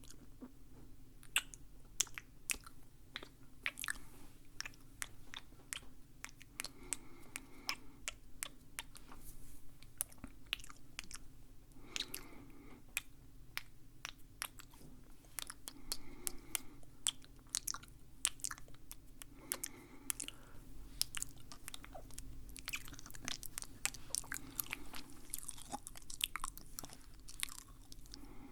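Close-miked ASMR mouth sounds: a dense run of sharp wet clicks and crunchy chewing, with a soft swell about every four seconds.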